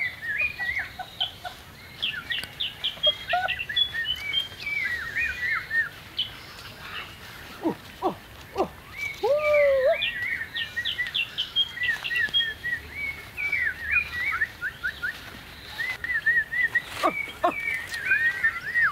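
Birds chirping and calling in a busy forest chorus of short, quick whistled notes, with a few long whistles falling steeply in pitch about halfway through and again near the end.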